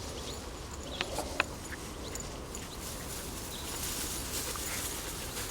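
Dogs pushing through tall dry weeds, a steady rustling of stalks with a few sharp snaps about a second in.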